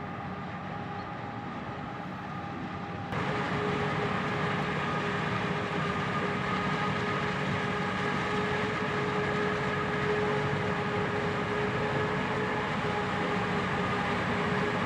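Heavy harvest machinery running steadily: engine noise with a constant whine on top. About three seconds in, the sound jumps louder and brighter.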